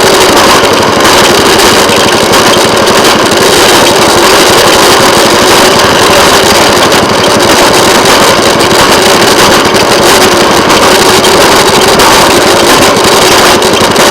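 Railway motorcar (track speeder) running along the rails, its small engine giving a loud, steady drone mixed with running noise.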